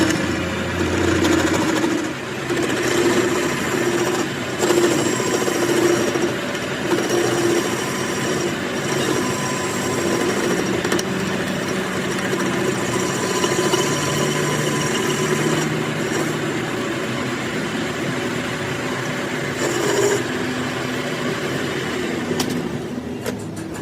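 Power tool working metal: a steady scraping, grinding noise with a faint whine, rising and falling a little in level.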